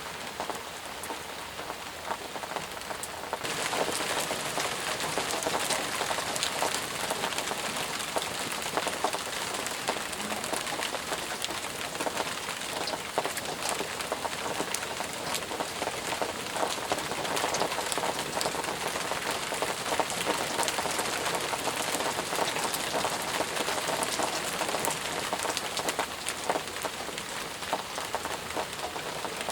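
Intense rain falling, a steady hiss with many separate drops heard hitting. It gets louder about three and a half seconds in and then holds steady.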